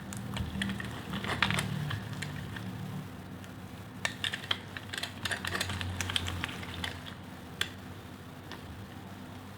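A knife cutting through a bar of soap into cubes, with dense crisp crackling and crunching in two bouts and a single sharp click near the end.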